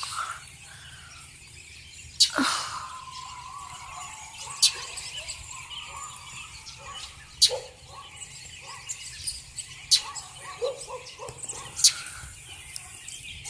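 Outdoor ambience with faint, scattered bird chirps and calls from a flock, punctuated by a few short, sharp sounds spaced two to three seconds apart.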